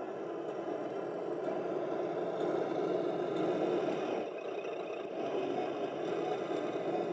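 1/14-scale radio-controlled Hercules dump truck running, a steady whirring, clattering noise that dips briefly about four seconds in.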